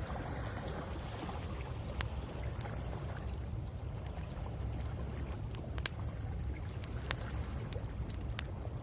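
Wood fire crackling, with sharp pops scattered every second or so, over a steady low rush of sea waves.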